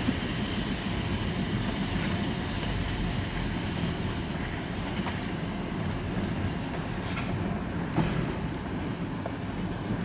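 A vehicle engine idling steadily, with a few faint ticks and knocks over it.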